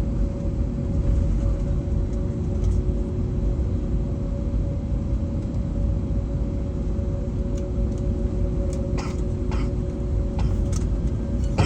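Steady low rumble inside the cabin of an Airbus A321neo taxiing on the ground, its CFM LEAP-1A engines at idle, with two steady humming tones over it. A few faint clicks come near the end.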